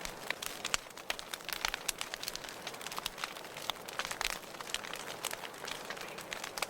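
Wood fire in a fireplace crackling, with a steady hiss and frequent irregular sharp pops and snaps.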